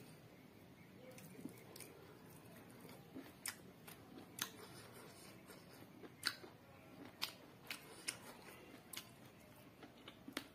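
Faint close-up eating sounds: chewing with sharp, irregular wet mouth clicks and smacks, about one a second.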